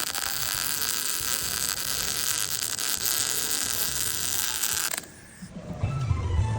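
A power tool working on metal runs steadily with a harsh, hissing buzz, then cuts off about five seconds in.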